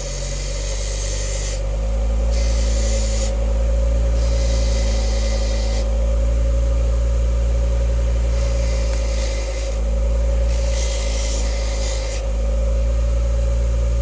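Motor-driven wire wheel spinning up and running steadily, with its wire bristles scrubbing against the Stihl FS 45 ignition coil's contact points in repeated bouts to clean off their rough, dirty surface.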